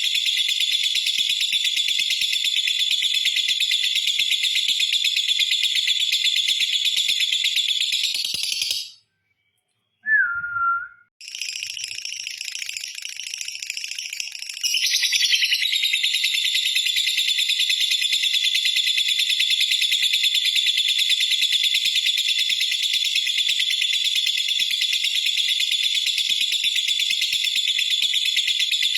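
Lovebird's long, rapid, high-pitched trilling chatter (ngekek). It breaks off about nine seconds in, and after a short silence with one brief call it starts again, quieter at first and back at full strength from about fifteen seconds in.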